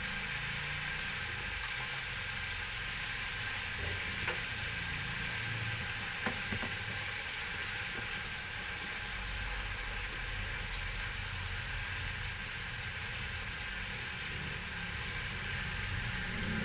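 Pieces of soy-and-calamansi-marinated pork liver sizzling steadily as they fry in hot oil in a pan, with scattered small pops and spatters.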